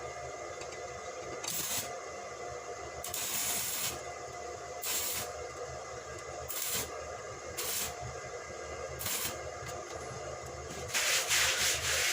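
Stick (arc) welding: the electrode's arc hisses and crackles in repeated bursts as welds are laid on steel angle iron and bar, over the steady hum of the welding machine.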